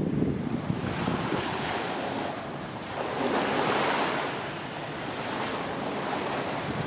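Jet engine rush from a Boeing 787-10 airliner, swelling to a peak about three to four seconds in and then easing, under heavy wind buffeting on the microphone.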